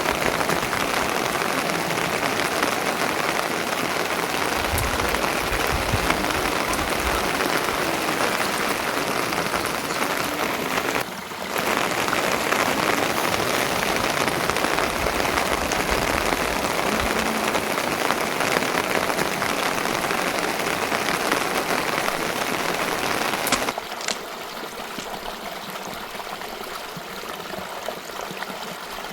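Steady rain falling, an even hiss, broken off for a moment about eleven seconds in. Near the end it drops to a quieter, lighter hiss.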